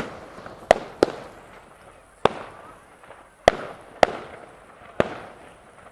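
Fireworks going off: about seven sharp bangs at uneven intervals, each trailing off in a short echo.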